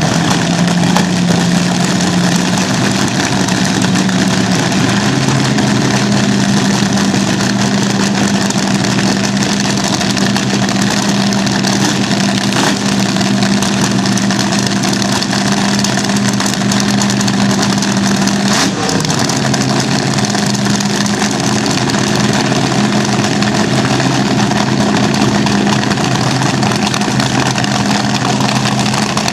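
Vintage slingshot dragster engines running loud and steady at a fast idle, with small changes in pitch about 5 seconds in and again about 19 seconds in.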